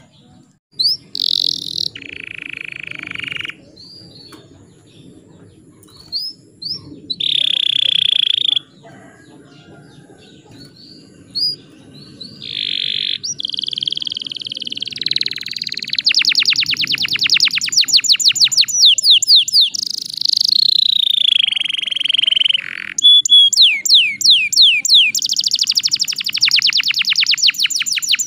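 Young canary singing: short phrases and held whistles at first, then long, fast trills of rapidly repeated notes from about halfway on. It is a lure song for rousing other canaries to sing.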